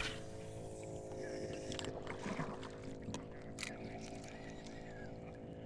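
A steady motor drone holding one pitch, heard over water sounds around the kayak. A louder splash-like rush comes about two seconds in, and there are a few small clicks and knocks.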